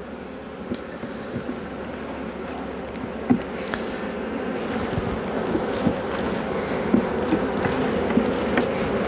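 Honeybee colony buzzing in an open hive while frames are being inspected, a steady dense hum that grows gradually louder, with a few light knocks scattered through it.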